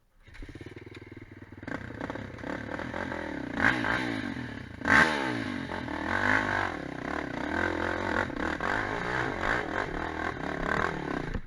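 Quad bike engine revving up and down repeatedly while being ridden, with clattering and two sharp knocks about four and five seconds in. The sound starts and stops abruptly.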